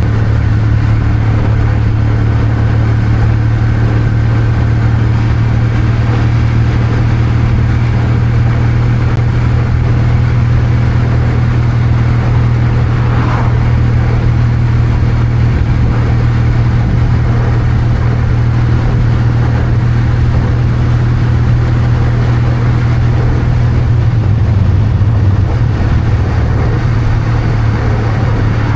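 Kawasaki W800's air-cooled parallel-twin engine running at a steady pitch on the move, recorded from the motorcycle itself; the note wavers briefly a few seconds before the end.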